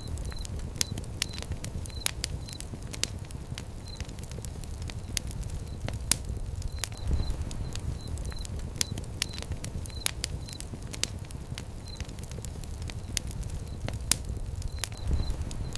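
Fire pit fire crackling, with frequent sharp, irregular pops and snaps over a low, steady rumble of flames.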